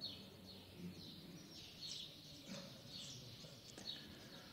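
Faint bird chirping: short high chirps repeating about once or twice a second, over faint background noise.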